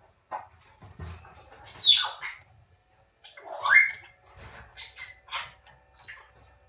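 Moluccan cockatoo chicks calling: a string of harsh, squeaky calls. The two loudest come about two and four seconds in, the second sliding up in pitch, followed by several shorter calls.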